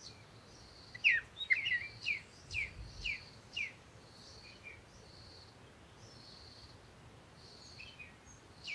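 Birds chirping: a quick run of short, falling chirps between about one and four seconds in, over softer, higher short notes repeating throughout.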